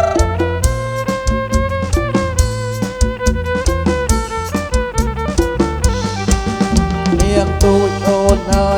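Amplified live Kantrum band playing an instrumental passage: a steady drum-kit beat under a held, sustained melody line.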